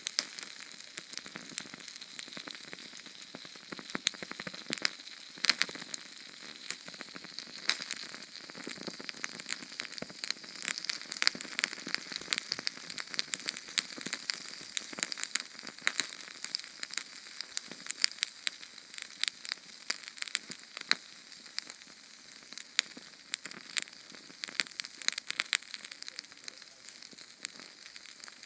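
Small Sterno canned-fuel flame burning: a steady thin hiss with many irregular sharp crackles and pops, high-pitched with hardly any low rumble.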